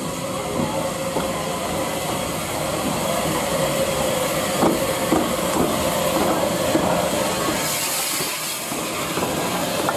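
Steam train on the move: steady hiss of steam with scattered clanks and knocks of the wheels and rolling stock, and a brief louder burst of steam hiss about eight seconds in.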